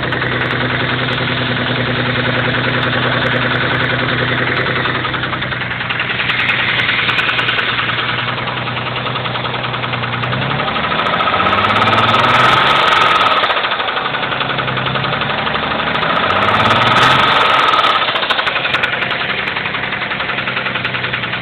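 Mitsubishi 3000GT VR4's twin-turbo 3.0 L V6 idling with a knock, revved up twice, about ten and sixteen seconds in, and falling back to idle each time. The owner takes the knock for a spun rod bearing, despite no metal in the oil and normal oil pressure.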